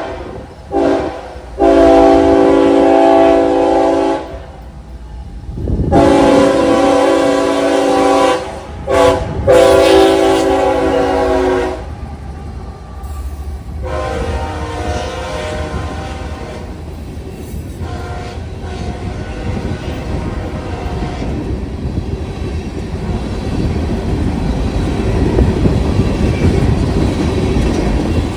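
Diesel locomotive air horn sounding a series of blasts, several long and a few short, through the first twelve seconds, then fainter horn notes. A train's rumble and rail clatter builds after that as it comes by.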